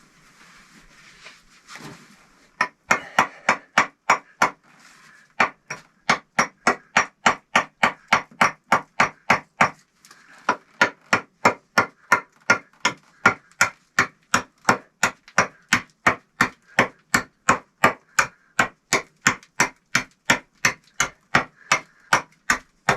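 Hammer striking a chisel into brick in quick, steady blows, about three a second, with two short pauses, cutting grooves to seat the stove's glass.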